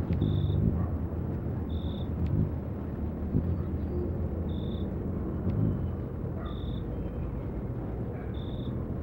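Outdoor background of a low steady rumble, with a short high-pitched chirp on one steady pitch repeating five times at uneven gaps of about two seconds.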